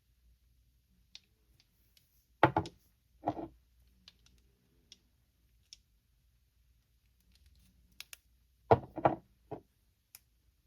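Small objects being handled on a tabletop: light clicks and taps, with a pair of louder knocks about two and a half seconds in and a quick run of three knocks near the end.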